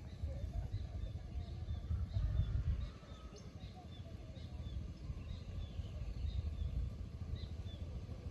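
Small birds chirping, short high notes repeated every half second or so, over a low rumble that swells for about a second starting two seconds in.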